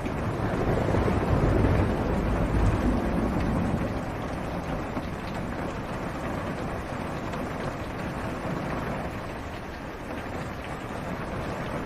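Steady rain on a car's roof and windshield, heard from inside the car. A low rumble of thunder swells in the first few seconds and fades.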